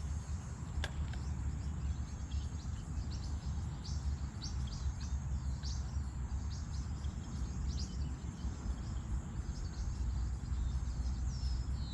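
Small birds chirping over and over in mangrove bush, over a steady low rumble and a thin, steady high whine. There is a single click about a second in.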